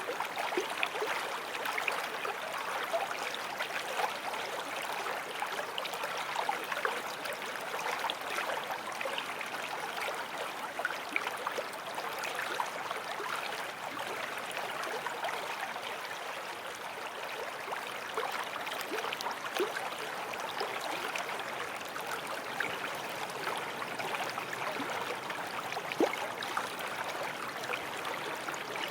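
Forest stream flowing: a steady babble of running water with many small splashes and gurgles throughout.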